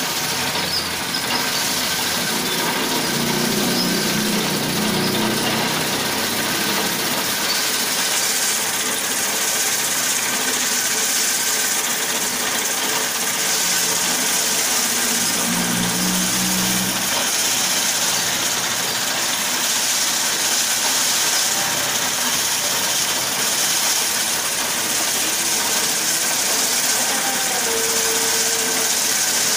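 Raffia rope winding machine running steadily, a continuous mechanical hum and whirr with a strong high hiss.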